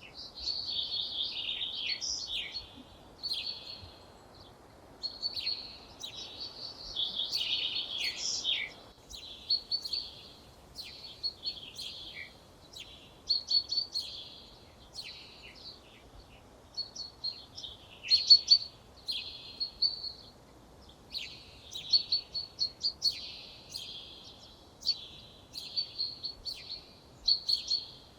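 Songbirds singing in short, varied, high-pitched phrases of chirps and trills, each a second or two long with brief pauses between them.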